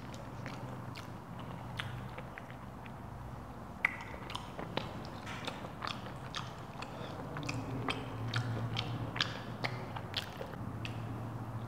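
Close-miked chewing and eating with many small wet mouth clicks, busier in the second half, with a sharper click about four seconds in, while fish is picked apart and eaten by hand.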